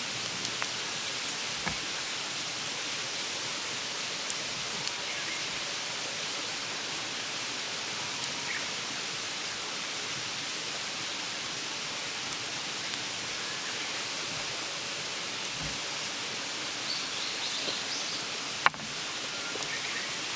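Mountain stream babbling steadily, a constant rushing hiss of running water. A single sharp click sounds near the end.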